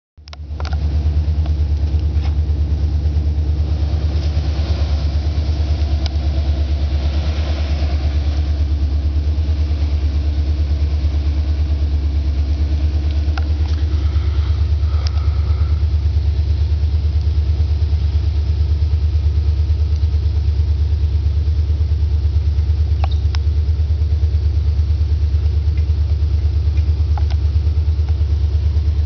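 Steady, even low rumble of a vehicle engine idling close by, unchanged in level throughout, with a few light clicks and knocks scattered through it.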